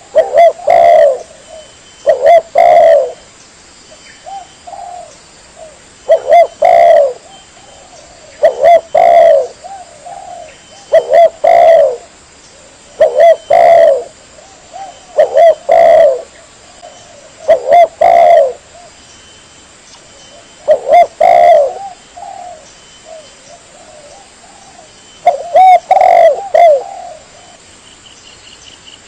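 Spotted dove (tekukur) cooing as a lure call. The bird gives loud repeated coo phrases about every two seconds, with softer short coos between some of them.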